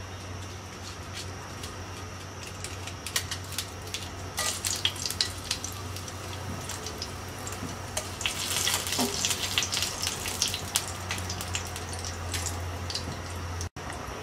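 Torn dried red chillies and their seeds sizzling and crackling in hot oil in a nonstick frying pan, over a steady low hum. The pops thicken about four seconds in and again around eight seconds.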